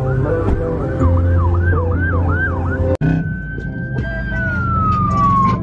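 Police siren in fast rising-and-falling yelp sweeps. After a brief dropout about three seconds in, it changes to one held tone that slowly falls in pitch, over a low, steady engine rumble.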